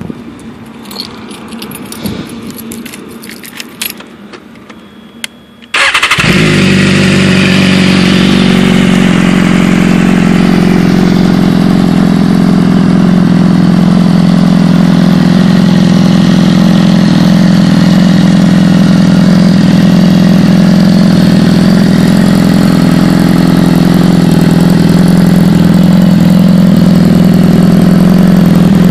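Keys jangling and clicking for a few seconds. Then, about six seconds in, a 2013 BMW S1000RR's inline-four engine fires abruptly through its Austin Racing full exhaust and settles into a loud, steady idle.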